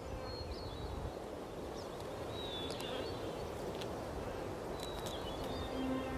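Outdoor ambience: a steady low background hiss with faint, high, short bird chirps and thin whistles scattered through it.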